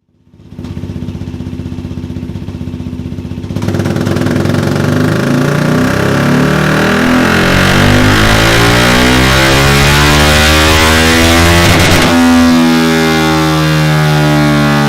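KTM RC390's single-cylinder engine breathing through an aftermarket carbon-fibre round exhaust muffler on a dyno: it runs steadily, then the throttle opens a few seconds in and the revs climb steadily through a long pull before falling back near the end.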